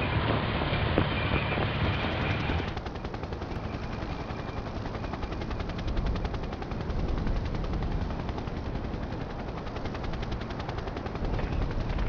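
A rapid, steady rattle of sharp clicks that starts about three seconds in, after a stretch of rumbling noise.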